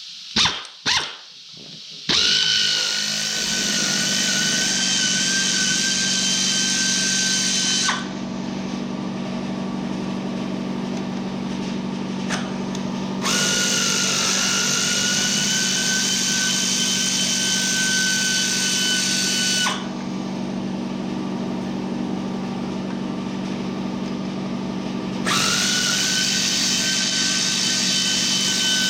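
Air compressor and pneumatic tools in a workshop. Two short blips of an air tool come first, then a steady low hum with a high whine. The whine comes and goes in long spells of several seconds.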